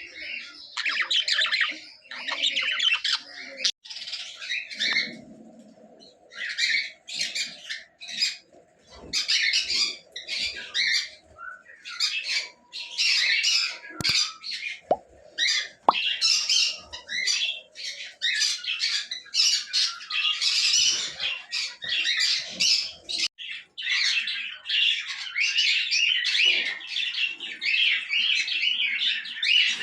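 A flock of caged budgerigars chattering and chirping continuously, in rapid overlapping bursts of warbles and squawks.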